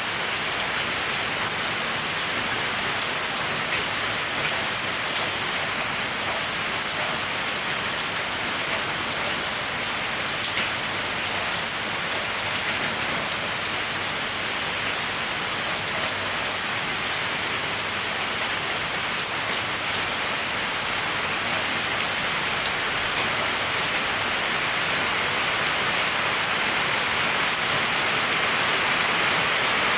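Steady rainfall: an even hiss with many small drop ticks, growing slightly louder toward the end.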